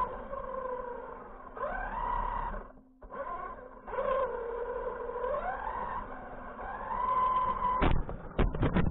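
Whine of a radio-controlled vehicle's brushless electric motor, its pitch rising and falling with the throttle and cutting out briefly partway through. Several sharp knocks come near the end.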